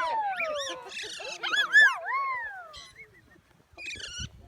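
Pet parrots calling: a run of overlapping whistled calls that swoop up and down in pitch, loudest about two seconds in, then a short harsh squawk near the end.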